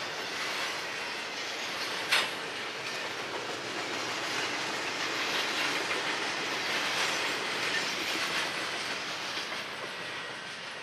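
Railroad cars rolling past on the track in a steady rumble with clickety-clack from the wheels, and one sharp clank about two seconds in.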